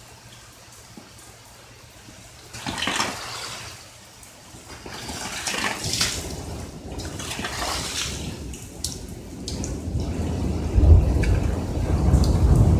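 Thunderstorm: rushing swells of rain noise come and go, then a deep roll of thunder builds up over the last couple of seconds.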